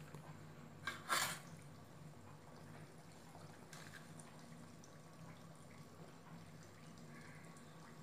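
An adhirasam, a disc of rice-flour and jaggery dough, frying gently in oil in an iron kadai: faint bubbling, with two sharp pops about a second in. A steady low hum runs underneath.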